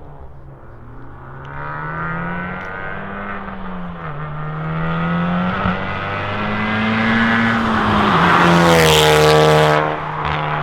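Honda Civic Type R's turbocharged four-cylinder at full throttle through a catless downpipe and a Remus valved cat-back exhaust with the valves fully open, its pitch rising and falling through several pulls. It grows louder to a peak near the end, then drops off sharply.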